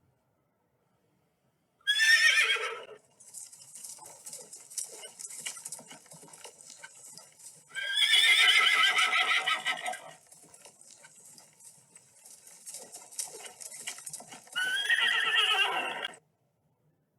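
A horse whinnying three times: a short call about two seconds in, a longer one about eight seconds in, and another near the end. Between the calls there are faint hoofbeats over a steady hiss.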